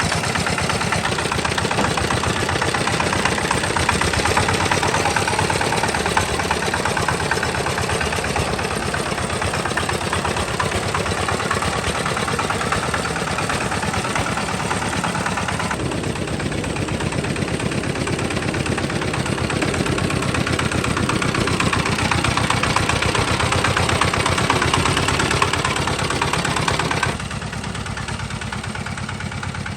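Tractor engine running steadily, its sound changing abruptly about halfway through and turning quieter near the end.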